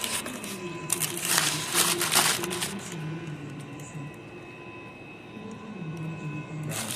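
Paper wrapper of a McDonald's steak and egg bagel rustling as it is handled, in loud bursts about a second in and again near the end, over a faint pitched background hum.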